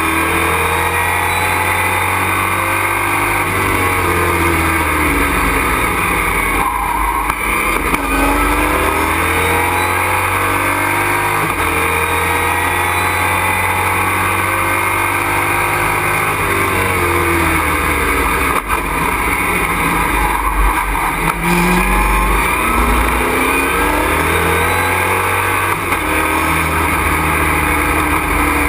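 Race truck's engine heard from inside the cockpit at race pace, running hard the whole time, its pitch dipping and climbing back again several times as it slows for corners and accelerates out of them.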